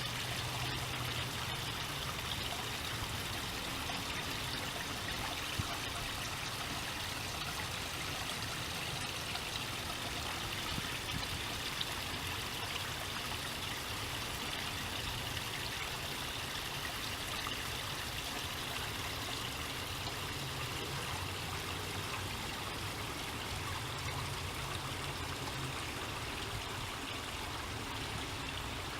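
Steady rush of running water, like a stream, going on evenly throughout.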